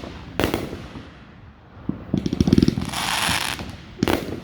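Aerial fireworks: a sharp shell burst about half a second in, then a quick run of crackling pops with a sizzling hiss about two seconds in, and another sharp bang near the end.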